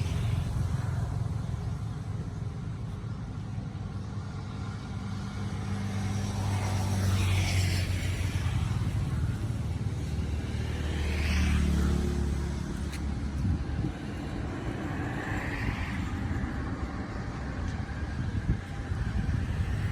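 Road traffic: low engine rumble of vehicles passing, swelling twice in the middle, with a few brief high-pitched sounds over it.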